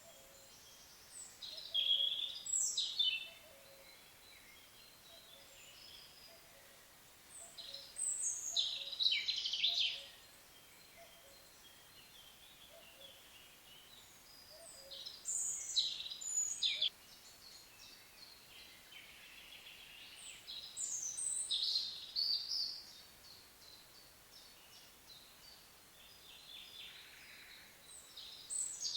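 A songbird singing in separate, varied phrases of two to three seconds each, four times with quiet gaps between, over a faint steady background.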